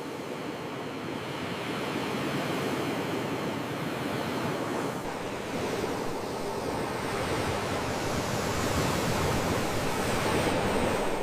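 Sea waves washing on a shore: a continuous surf that swells slowly louder through the second half.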